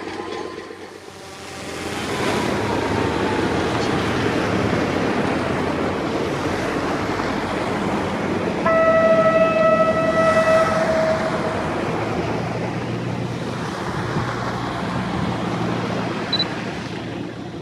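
Narrow-gauge diesel train running past, its noise swelling about two seconds in, with one horn blast of about two seconds on a single note near the middle. The running noise eases toward the end.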